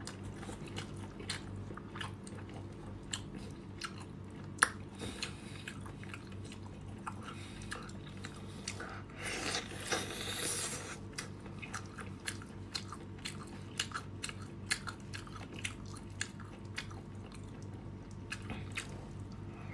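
Close-miked mouth sounds of someone eating a whole cooked octopus: wet biting and chewing with many small clicks and smacks, and a longer, louder noisy stretch about halfway through as a tentacle is drawn into the mouth.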